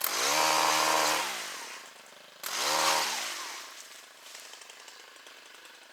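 Two-stroke chainsaw revved hard twice, about two and a half seconds apart, each time winding down to idle.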